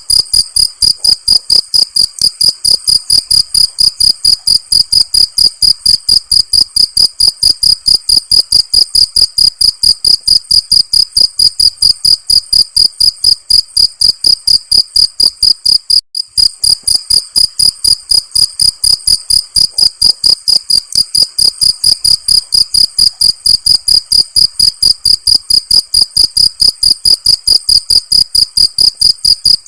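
Cricket chirping in a fast, even, high-pitched train, about three chirps a second, with a momentary break about halfway through.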